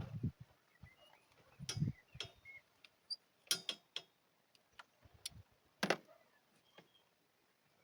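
Sparse, irregular clicks and knocks, a handful over several seconds; the sharpest come about two seconds and six seconds in.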